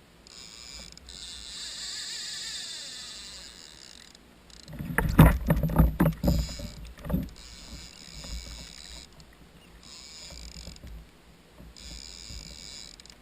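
Water sounds on a kayak, coming in repeated stretches of hiss, with a burst of loud knocks and thuds against the hull about five seconds in.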